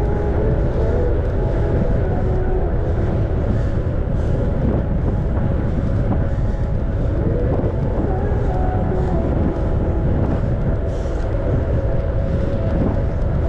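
Steady wind rumble on the microphone while riding a bicycle, with tyre and road noise mixed in and faint wavering tones above it.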